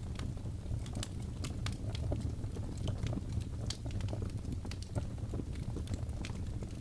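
Fireplace fire burning with a steady low rumble and frequent irregular crackles and pops.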